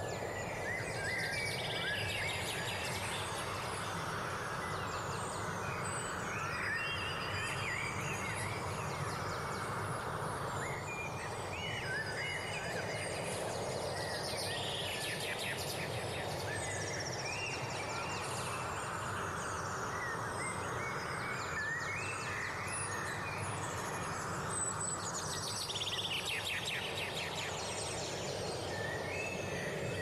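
Several birds chirping and trilling over a steady rushing background noise that slowly swells and eases.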